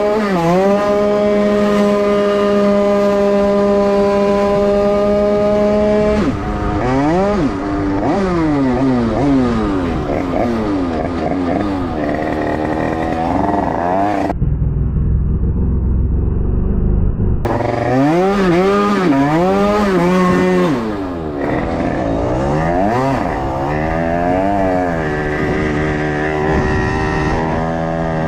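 Motorcycle engine at high revs, held steady for about six seconds, then rising and falling over and over as the rider accelerates and shifts gears. For about three seconds near the middle the engine note drops away, leaving only a low rumble.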